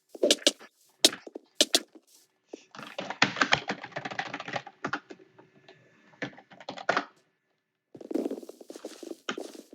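Typing on a computer keyboard: a few separate keystrokes at first, then quick runs of clicking keys, with a short pause about three-quarters of the way through before the typing picks up again.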